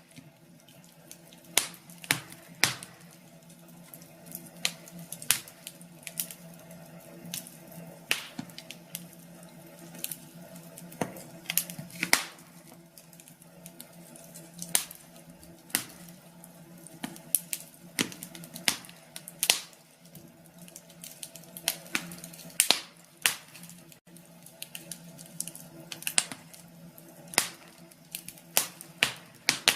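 Wood fire crackling in a cast-iron fireplace stove: irregular sharp pops and snaps, a few of them loud, over a steady low hum.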